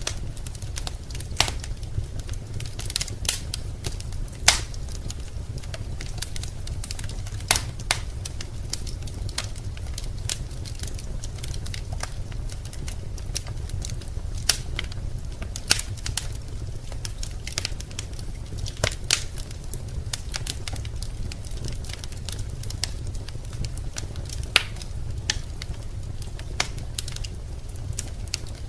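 Wood fire crackling in a fireplace: irregular sharp snaps and pops, a few seconds apart, over a steady low rumble.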